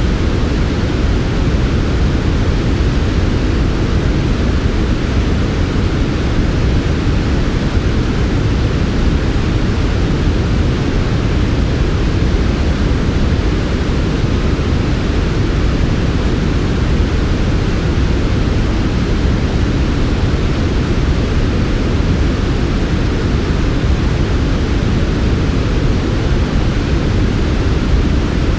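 Steady generated sleep noise, a smooth hiss weighted toward the low end so it sounds soft and rumbly rather than bright. It does not change.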